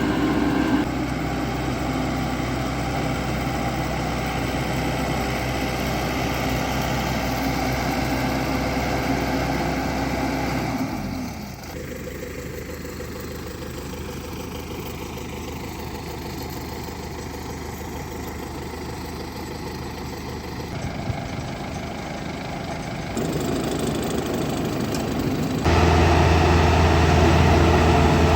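Diesel engine of farm machinery running steadily in a paddy field. It drops to a quieter, thinner sound about a third of the way through and switches back abruptly to a louder, deeper running near the end.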